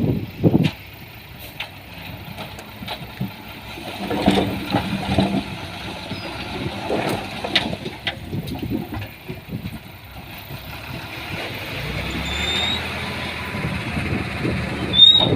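Diesel engine of heavy earthmoving machinery running steadily, growing louder near the end.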